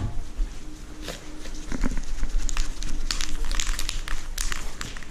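Irregular clicks and crinkling rustles from spray-paint cans and painting gear being handled, denser in the second half.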